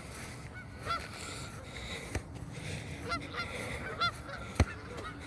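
A large flock of gulls calling, with many short cries scattered and overlapping throughout. One sharp thump near the end.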